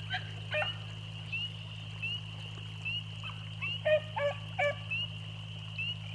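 Beagles baying while running a rabbit track: a few short bays about half a second in, then a quick run of bays around four seconds in. Under them run a steady low hum and a high chirp that repeats about once a second.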